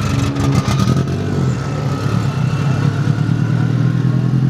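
Drag race car's engine idling with a steady low drone at an even pitch, with a few sharp clicks within the first second.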